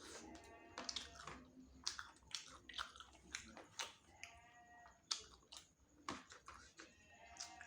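Close-up chewing and biting of spicy chicken wings: irregular wet mouth clicks and smacks, with a few brief pitched mouth sounds between them.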